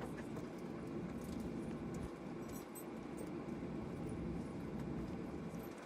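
Steady low rumble of a Boeing 737-800's cabin while it taxis after landing, with light scattered clicks and rattles.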